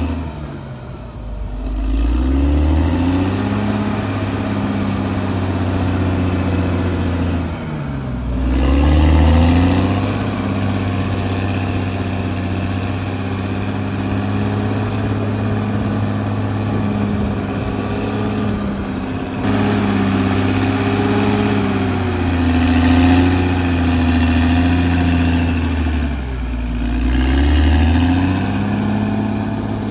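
Caterpillar D6R XL bulldozer's diesel engine running under work, its speed sagging and climbing back three times: near the start, about eight seconds in, and near the end.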